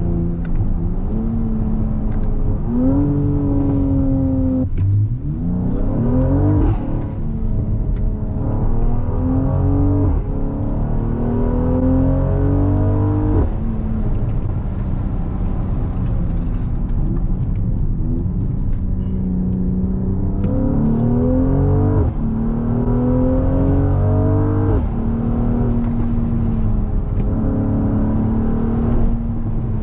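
Mercedes-AMG GLC 43's twin-turbo V6 under acceleration, heard from inside the cabin through the open sunroof. Its pitch climbs and then drops several times as the nine-speed gearbox changes gear.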